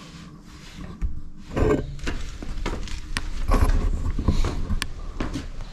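Front brake lever of a Suzuki GSX-R 600 being pumped to push the new pads back against the disc, with irregular clicks and knocks of hand and lever handling starting about a second in.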